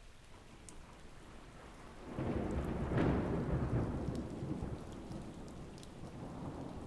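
Thunder rolling over steady rain: a low rumble breaks in about two seconds in, peaks a second later and slowly dies away while the rain keeps falling.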